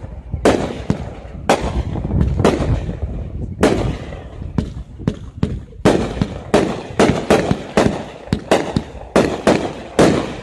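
Aerial fireworks display: a rapid, irregular run of loud bangs from shells bursting overhead, coming thickest from about six seconds in to near the end.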